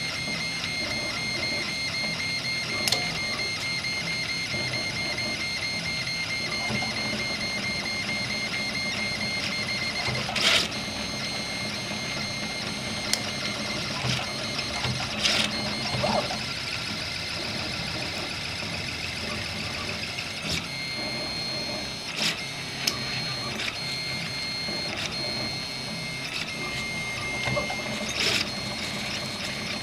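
RepRap 3D printer running a print: its stepper motors whine in steady high tones that change pitch as the moves change. A few sharp clicks are scattered through.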